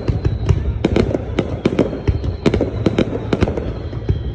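Fireworks display going off: a rapid, irregular string of sharp bangs and cracks, several a second, over a continuous low rumble.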